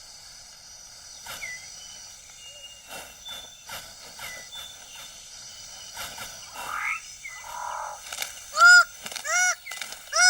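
Rainforest ambience: a steady high insect hum with scattered short animal calls, then near the end a loud run of three short arched calls, each repeated less than a second after the last.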